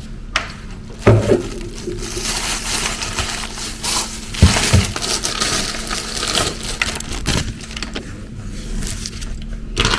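Continuous crackly rustling, like something being crushed or crinkled, with a few knocks about a second in, in the middle, and near the end.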